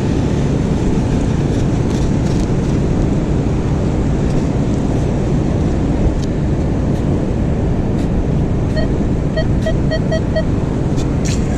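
Strong wind buffeting the microphone, a steady low rumble, with a few knocks. Near the end a handheld metal-detecting pinpointer gives a quick run of about six short, evenly spaced beeps as it homes in on a buried target.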